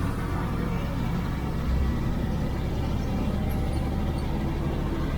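An IFA L60 truck's four-cylinder diesel engine running steadily under way, heard from inside the cab as an even low rumble.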